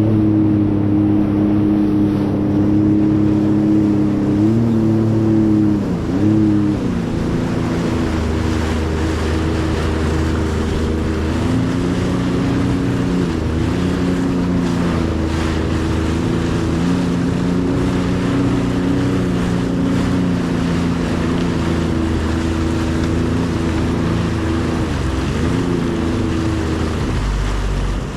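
Jet ski engine running steadily over a hiss of wind and water, its pitch dipping briefly twice about five and six seconds in, then holding with small wavers.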